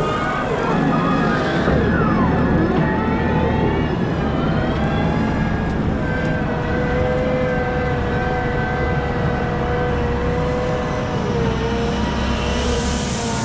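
Caterpillar 972M XE wheel loader working, its engine running with a whine from the drivetrain and hydraulics that rises and falls in pitch over the first few seconds and then holds steady.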